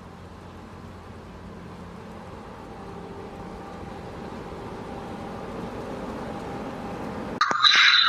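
Steady vehicle and road noise that slowly grows louder, broken near the end by a sudden, much louder sound.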